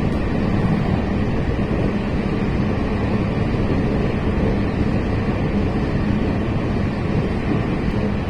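Moving train running steadily: a continuous low rumble with a faint steady hum.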